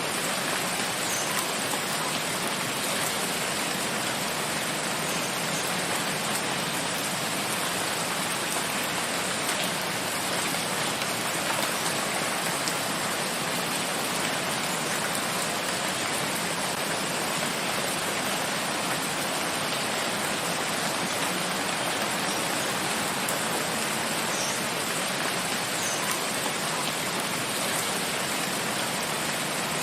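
Steady rain falling in a forest, an even, unbroken hiss of drops.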